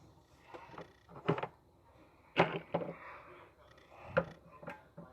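Small plastic toy figures being moved and set down on a surface: several light, sharp taps and knocks spread unevenly through a few seconds of quiet handling noise.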